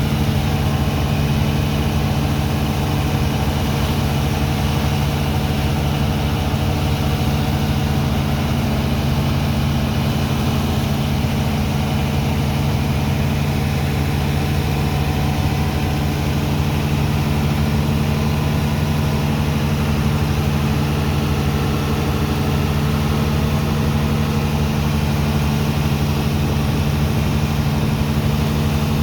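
Engine of a sand-dredging pump machine running steadily as it pumps sand off a barge: a loud, even, low drone with several steady tones that does not change.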